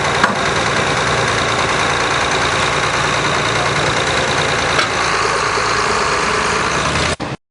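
John Deere 6030 tractor's diesel engine running steadily, with no revving, then cutting off suddenly near the end.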